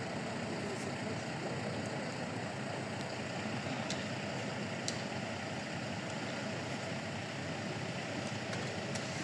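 Steady road traffic noise on a city street, with two faint clicks about four and five seconds in.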